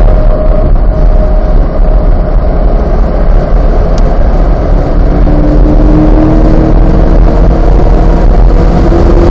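Chevrolet C8 Corvette's mid-mounted 6.2-litre V8 running hard on track, over a heavy rumble of wind and road noise. From about halfway the engine note climbs steadily in pitch as the car accelerates.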